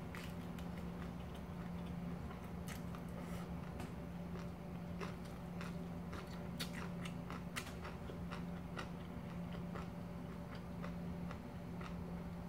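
Close-up biting and chewing of a seaweed-wrapped rice hand roll, with many irregular small clicks and crackles of the food and mouth.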